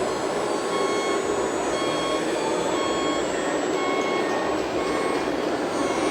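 Reversing beeper from an RC model truck's sound module, beeping about once a second as the truck backs up, over a steady background noise.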